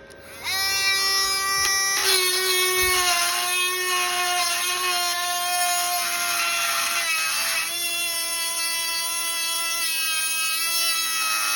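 Dremel high-speed rotary tool running at full speed with a steady high-pitched whine and hiss, grinding on metal; the whine sags briefly twice as the bit is pressed into the work.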